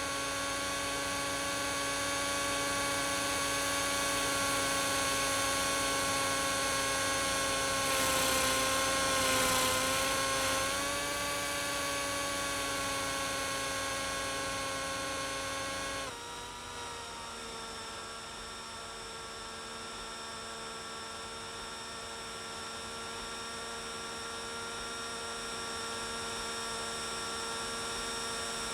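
Small RC helicopter's motor and rotor whining at a steady pitch. It wavers and grows louder for a few seconds about a third of the way through, then drops suddenly to a lower, quieter whine about halfway through, as when the throttle is eased.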